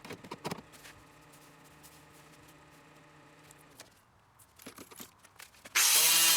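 A few light clicks and knocks of tools being handled, then a power tool starts suddenly near the end and runs loud and steady with a constant whine.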